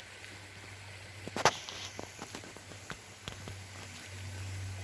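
Footsteps on a wet gravel path: a scattering of short crunches and clicks, the loudest about a second and a half in, over a faint low hum.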